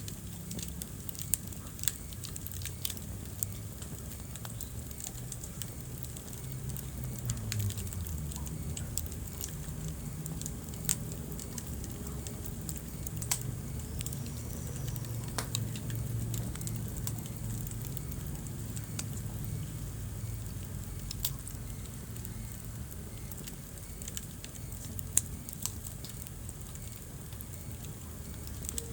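Wood fire burning in a fireplace: a steady low rumble of flames with irregular crackling and occasional sharp pops from the burning logs.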